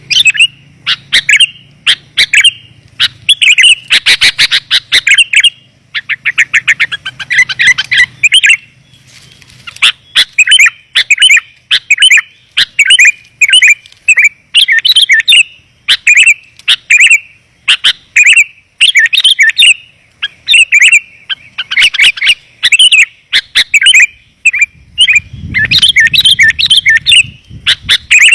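Sooty-headed bulbul (kutilang) calls played back as a lure: loud, dense runs of quick chirping phrases with fast trills, barely pausing.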